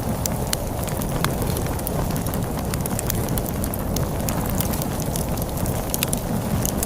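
Wood fire crackling with many sharp pops and snaps, over a steady low rumble of storm wind.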